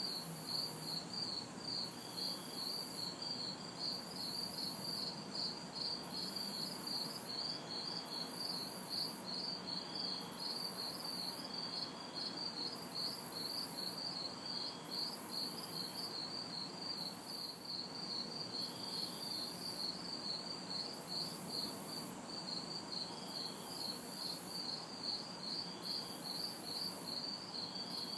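Crickets chirping in a steady, even rhythm of about three chirps a second. A higher insect buzz switches on and off every second or two, over a faint even hum of distant city traffic.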